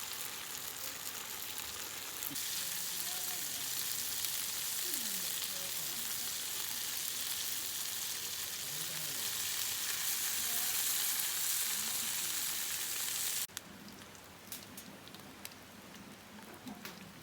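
Food sizzling in a pan over a campfire, a steady hiss. About 13 seconds in it cuts off suddenly to quieter light rain with scattered drips and ticks.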